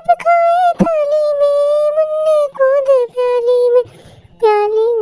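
A high, child-like voice singing a Hindi children's rhyme in long held notes, pausing briefly near the end, with a short click about a second in.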